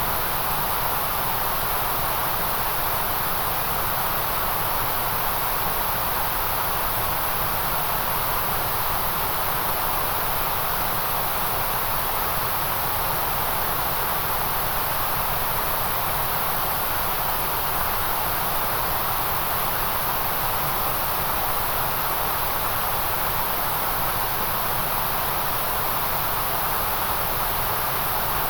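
Steady, unchanging synthetic noise, hissing without any rhythm or events, with its energy in a band around 1 kHz and a high hiss above.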